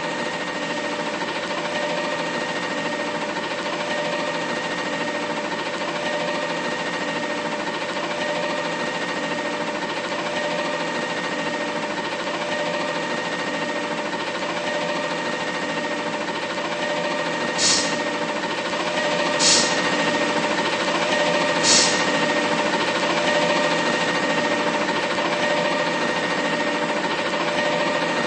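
Mack LR McNeilus front-load garbage truck running: a steady rattling diesel drone with a constant whine. Three short bursts of high hiss come a little past the middle.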